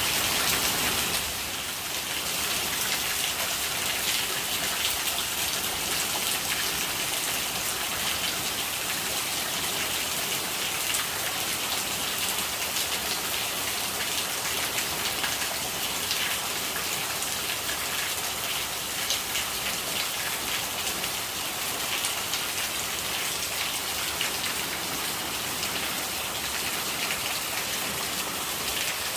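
Steady rain falling, a dense, even patter of raindrops on a surface, with a slight drop in level about a second in.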